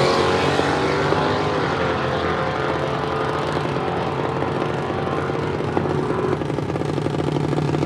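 Engine running steadily at a constant speed, its pitch easing slightly in the first second.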